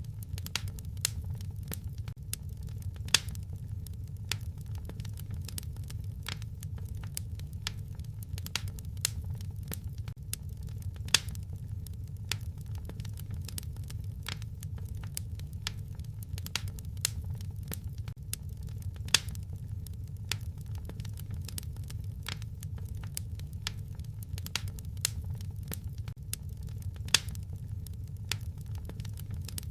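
Wood fire crackling in a fireplace: a steady low rumble of burning with irregular sharp crackles and pops, a few of them markedly louder.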